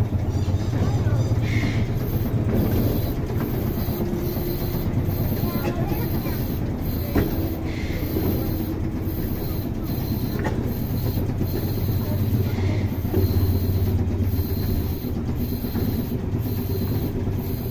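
Small tourist mini train running, heard from on board: a steady low rumble of its engine and wheels, with a single sharp click about seven seconds in.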